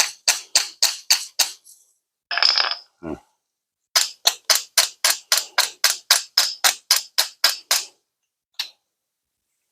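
Body hammer tapping quickly on the sheet metal of a truck bed panel being straightened, sharp metal taps about four a second in two runs, with a short harsh burst between them. The tapping knocks down the metal while the welded studs hold the dent pulled out.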